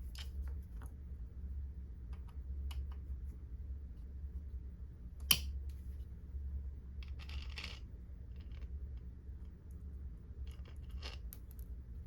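Small metal carburetor parts being handled and fitted: scattered light clicks and taps, one sharp click about five seconds in and a brief scrape a couple of seconds later, over a steady low hum.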